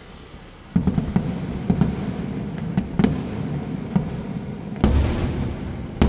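Firecrackers and fireworks going off: a dense crackling string of bangs starts suddenly about a second in, with louder booms every second or so.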